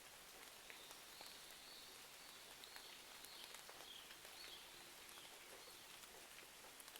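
Faint, steady rain with scattered small ticks and pops, and a bird chirping over it again and again from about a second in until past the middle.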